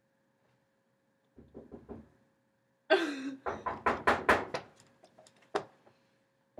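A quick run of knocks and thumps on the metal clothes dryer, about eight sharp ones in a row, with a short creak just before them and a few softer rattles earlier.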